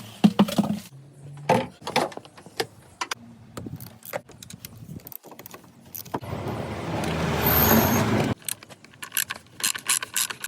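Metal tools and car parts clicking and clinking in a string of sharp separate knocks, with a steady noisy whir lasting about two seconds in the second half.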